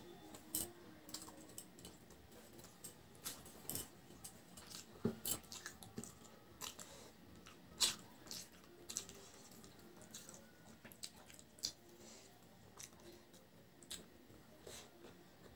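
Close-up eating sounds: a person chewing a mouthful of rice and curry eaten by hand, with irregular sharp wet mouth clicks and soft squishing as her fingers mix rice on the plate.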